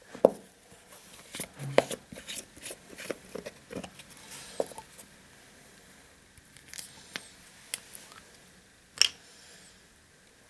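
Scattered light clicks and taps from handling small plastic bottles of epoxy and hardener, with a sharper click about nine seconds in.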